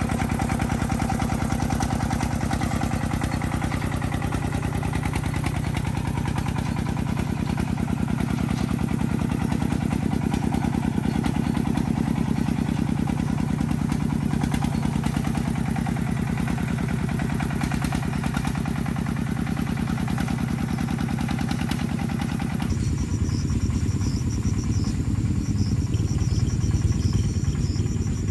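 Farm vehicle's engine running steadily with a rapid, even chugging. About 23 seconds in the sound changes abruptly to a deeper, rougher running with less middle range.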